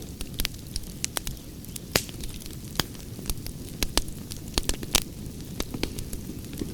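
Campfire crackling: a steady low rumble of burning with irregular sharp pops and snaps, several a second.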